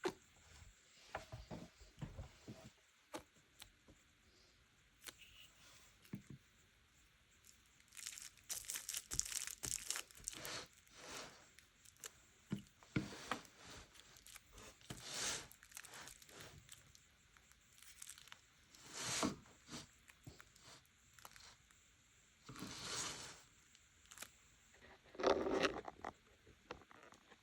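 Paper being torn and handled: a string of short rasping tears and rustles, with the longest and loudest tears near the end.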